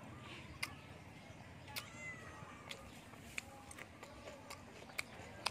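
Soft chewing and mouth clicks of someone eating deep-fried fish, a scattering of short sharp clicks. A faint rising-and-falling call comes about two seconds in.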